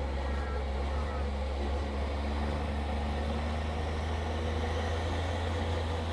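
Long-tail boat's engine running steadily at speed as the boat speeds up the canal, an even low drone with a constant rush over it.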